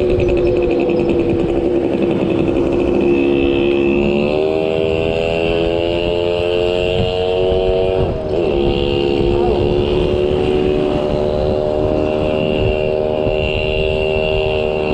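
A motor vehicle's engine running close by in traffic, its pitch stepping up about four seconds in and dipping briefly near the middle like a gear change, over the rumble of wind on the microphone of a moving bicycle.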